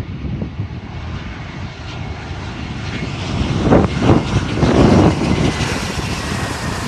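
An airplane's engines grow steadily louder as it approaches, with faint high-pitched whine over a rushing drone.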